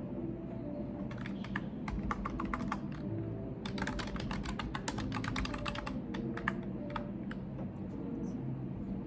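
Typing on a computer keyboard: a short run of keystrokes about a second in, then a longer, faster run from about three and a half to six and a half seconds, with a few scattered keystrokes after.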